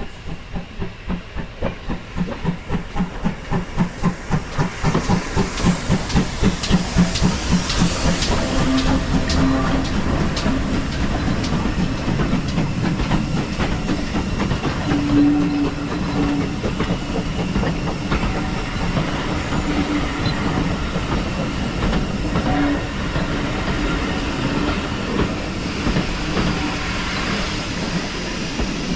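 Steam locomotive pulling away: its exhaust beats quicken from about two to about four a second over the first eight seconds, then blend into a steady running sound with steam hiss and wheels on the rails.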